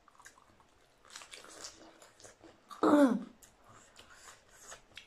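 Crunchy chewing and biting of raw cucumber slices close to the microphone, a run of small crisp crunches. About three seconds in comes one short vocal sound from an eater, falling in pitch, louder than the chewing.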